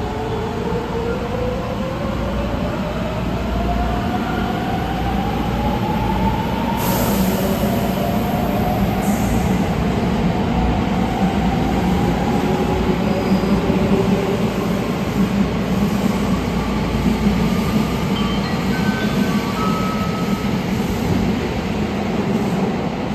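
Haruka limited express electric train accelerating: the traction motors' whine rises steadily in pitch through the first several seconds, over the steady rumble of the train running on the rails.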